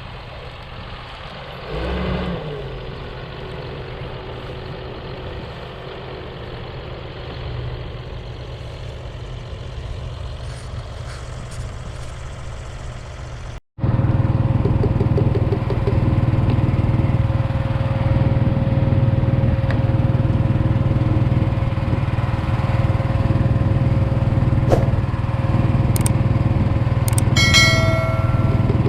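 Tractor engine running steadily. Halfway through it cuts abruptly to a louder, steadier engine drone. Near the end a brief high-pitched tone sounds over it.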